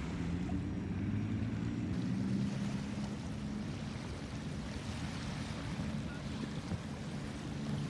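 Ocean surf washing onto a beach, with wind on the microphone.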